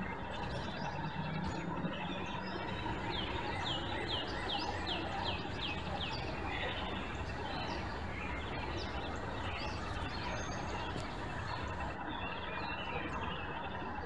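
Small birds chirping over a steady background hiss and rumble. About three seconds in, one bird gives a quick run of about ten repeated notes lasting some three seconds.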